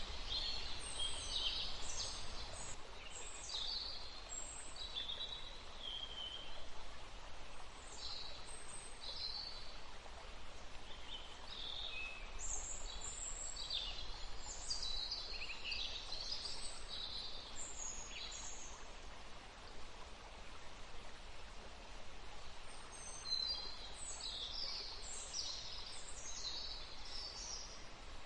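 Woodland ambience: songbirds chirping and calling in quick bursts of short, high notes, pausing for a few seconds past the middle, over a soft, steady hush of a flowing stream.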